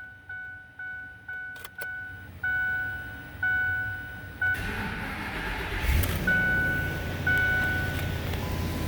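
A truck's warning chime dings repeatedly, twice a second and then about once a second, with two clicks between. The 5.4-litre V8 of a 2008 Ford F-250 Super Duty then cranks on the starter from about four and a half seconds in, catches about six seconds in and settles into a steady idle while the chime keeps dinging.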